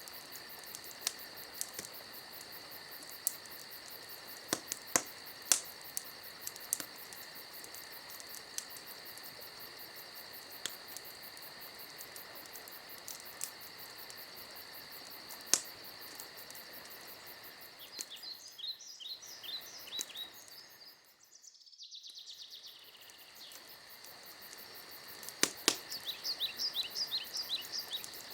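Campfire crackling with scattered sharp pops over a steady high chorus of crickets. A bird sings a quick run of short chirps twice, about 18 seconds in and again near the end.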